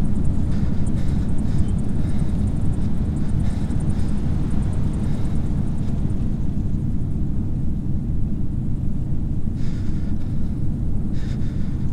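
Steady low rumbling background noise, with a couple of faint brief sounds near the end.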